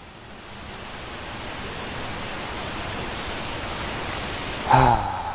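Steady rush of falling water from the rainforest lagoon. It grows louder over the first seconds, then holds. Near the end comes a brief thump and a short pitched call.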